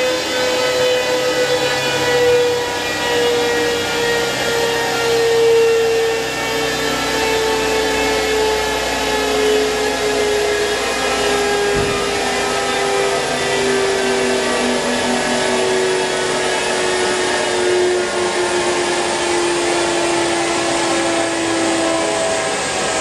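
Mitsubishi 6A12 MIVEC 2.0-litre V6 in a Honda Civic running under way, a steady pitched engine note that slowly falls over the whole stretch. A single short knock is heard about halfway through.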